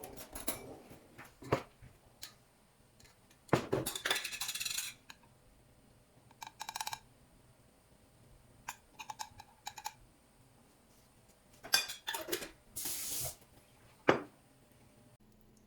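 Dishes and cutlery being handled and set down: irregular clinks and knocks, with a few short clattering runs.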